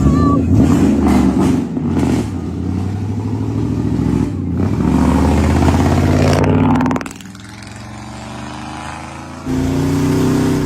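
Pickup truck engine revving and accelerating, the pitch rising and falling; it drops back to a lower, steadier run about seven seconds in, then picks up again about nine and a half seconds in.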